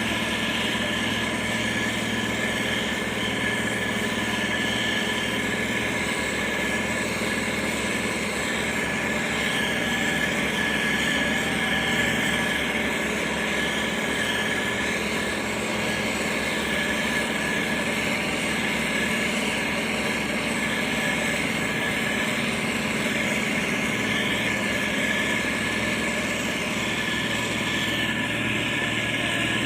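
Motor grader's diesel engine running steadily, with a constant pitch and no revving.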